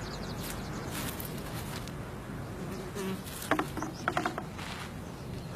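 Insects buzzing and chirping steadily. A short run of sharp clicks or knocks comes about three and a half to four seconds in.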